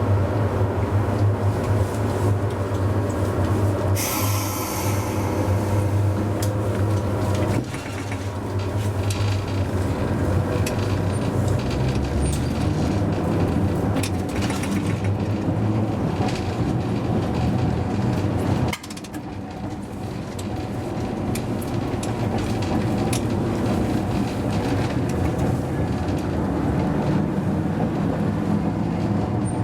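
Hakodate tram car No. 530 running: a steady low motor hum and wheel rumble with scattered clicks. A burst of air hiss comes about four seconds in, and the hum drops off suddenly twice, near eight and nineteen seconds in.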